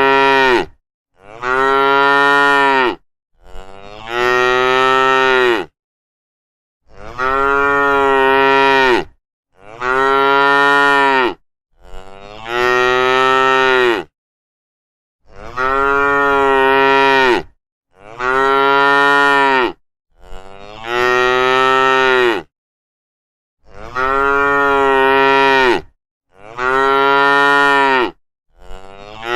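Cow mooing over and over: about a dozen long, drawn-out moos of about two seconds each, all nearly alike, with dead silence between them.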